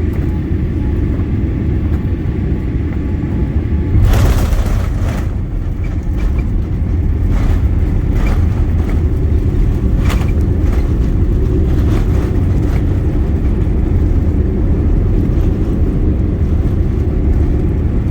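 Cabin noise of a Boeing 787-8 airliner landing: a steady low rumble, a sudden loud jolt about four seconds in as the wheels touch down, then the rumble of the runway roll with occasional thumps.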